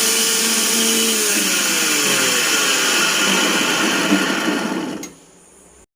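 Mixer grinder motor spinning its freshly repaired jar, with a new bush and the blade refitted, on a test run: a loud, steady whirring, in which a tone falls in pitch about a second and a half in. The motor stops about five seconds in.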